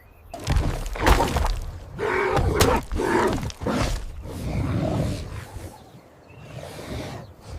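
A burst of dramatic action sound effects lasting about five seconds: crashes and thuds mixed with grunts, then fading away.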